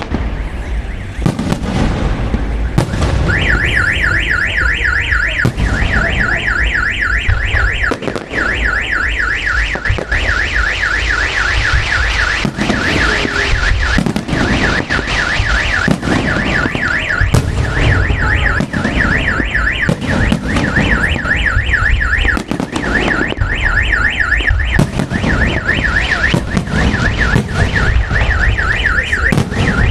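A car alarm wailing with a fast, repeating rising-and-falling warble that starts about three seconds in and keeps going. Underneath it, fireworks keep banging and crackling.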